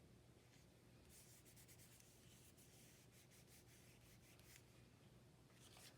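Faint rubbing and rustling of paper as collage pieces are pressed and glued down, in many short scratchy strokes from about a second in until near the end.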